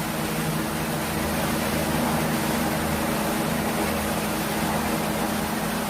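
Steady low hum with a constant hiss, the sound of a running appliance such as a fan or air conditioner.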